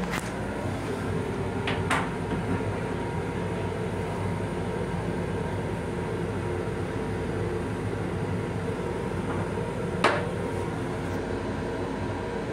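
Steady rumble and hum of an M7 electric railcar, heard from inside its restroom. A few sharp knocks break through it; the loudest comes about ten seconds in, as the toilet seat is lowered onto the bowl.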